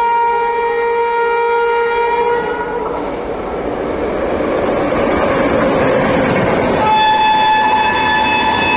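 Duronto Express train sounding its horn, a steady chord held for about two and a half seconds, then a steady rumble and rattle of the moving train. About seven seconds in, the horn sounds again at a higher pitch.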